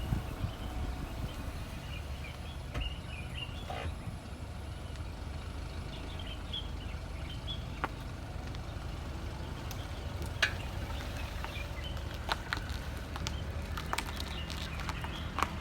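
BMW F10 being driven, with a steady low road rumble and, from the front of the car, intermittent short high squeaks and sharp clicks or knocks: the abnormal noise that comes on after turning.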